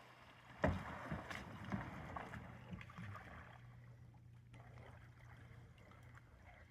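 Paddling sounds from a small paddled boat on a river: a sharp knock about half a second in, then a run of softer knocks and splashes that fade out by about halfway, over a steady low hum.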